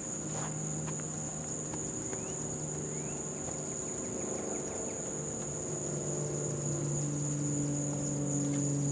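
A steady, high-pitched insect chorus, such as crickets, runs on without a break. A low hum of a few steady tones sits underneath.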